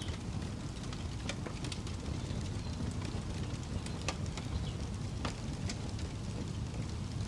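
Wood campfire crackling, with sharp pops at irregular intervals over a steady low rumble.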